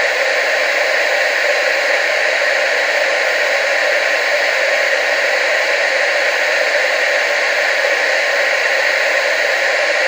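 Television static: a steady, unchanging hiss centred in the upper-middle range, with little bass.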